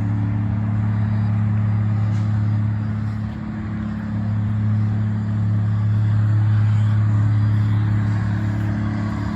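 Straight-piped diesel engine of a Kenworth dump truck running at a steady speed, a deep even drone that dips briefly about a third of the way in and grows louder in the second half.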